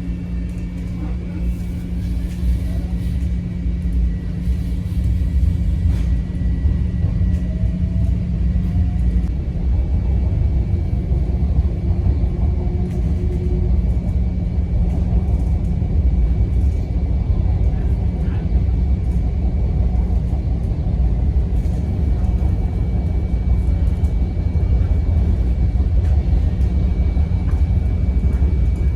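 Commuter train rumbling along the track, heard from inside the passenger car, getting louder over the first few seconds as it picks up speed. A steady low hum fades out about halfway through.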